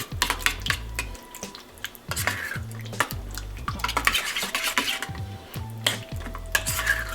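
Spoon stirring a thick tomato-and-ricotta sauce in a bowl, with many quick clicks and scrapes of the spoon against the bowl.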